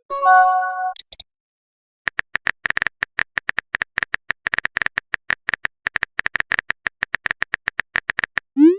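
Chat-app sound effects: a short electronic message chime in the first second, then rapid typing clicks, several a second, for about six seconds, and a quick rising swoosh right at the end as the next message is sent.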